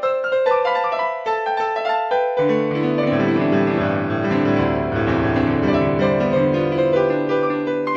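Solo piano music: a flowing run of notes, joined by low bass notes about two and a half seconds in.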